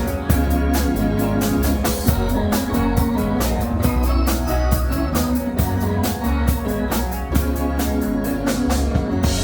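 Rock band playing a song, with an organ-sounding keyboard over drums keeping a steady beat and a bass line.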